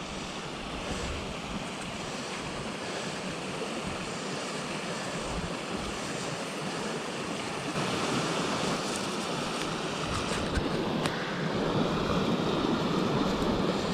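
Water of a small stream running out of a pond, a steady rushing that grows louder about eight seconds in.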